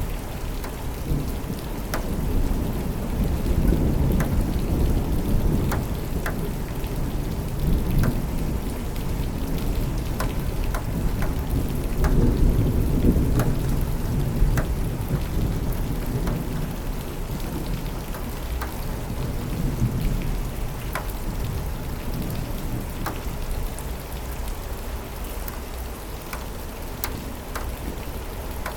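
Steady rain with scattered sharp drips, and low thunder rumbling under it, swelling a few seconds in and again around the middle before easing off.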